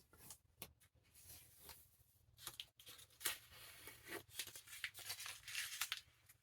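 Blue tape being peeled off a freshly glued book spine: quiet crackling and tearing, a run of sharp little rips that comes thicker in the second half.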